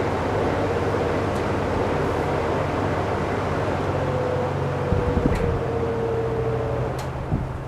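A 1950s GE three-speed all-steel box fan running, with a steady rush of air and a humming tone. There are a couple of light knocks about five seconds in and near the end, where the sound starts to fall away.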